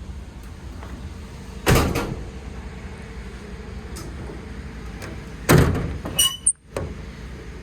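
Two loud thumps about four seconds apart; the second is followed by a brief high squeak.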